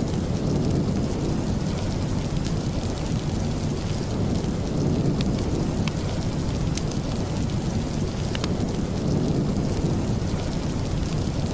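Steady rain with a deep, low rumble, and a few sharp clicks here and there.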